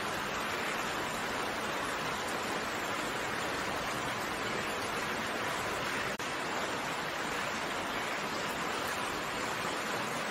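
Steady rain falling, an even hiss with no distinct drops standing out. About six seconds in, the sound drops out for an instant.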